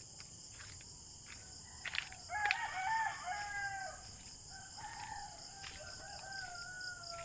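A rooster crowing: one drawn-out crow that starts about two seconds in and trails off slowly near the end. Under it runs a steady high hiss, with light regular footsteps.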